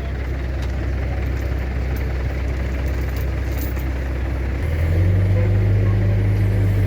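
Large vehicle engine running at idle, then speeding up to a higher steady pitch and getting louder just before five seconds in.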